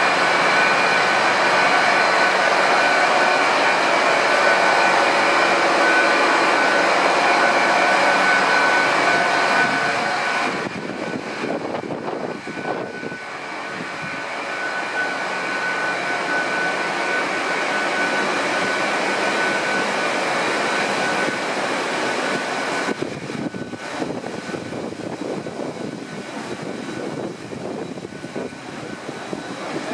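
Hitachi Class 800 bi-mode train moving alongside a platform on its underfloor diesel engines, a steady mechanical running with a high whining tone. It drops in level about ten seconds in and again a few seconds before the end.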